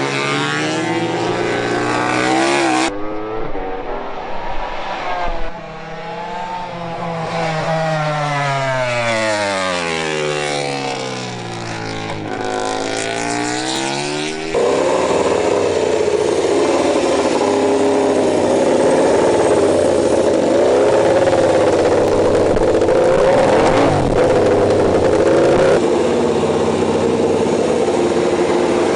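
MotoGP racing motorcycle engines at high revs, in several edited segments. The engine pitch swoops down and climbs back up in the middle, as a bike brakes and accelerates away, and a steadier, denser engine sound takes over abruptly about halfway through.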